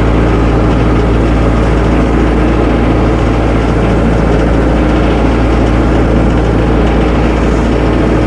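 Tractor engine running steadily at low speed while the tractor is moved back and forth.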